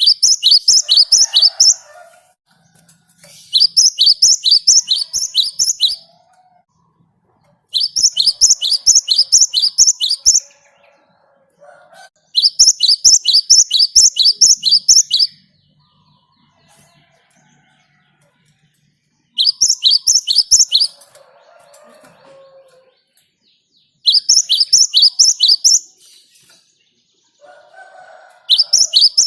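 Cinereous tit (gelatik batu) singing in a rolling run of loud, high, downward-slurred notes, about three a second. The notes come in phrases of two to three seconds with short pauses between, about seven phrases in all.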